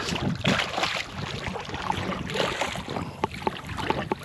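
Irregular knocks, slaps and rustles from a freshly landed strap conger eel being brought aboard and handled in a small fishing boat, with wind buffeting the microphone.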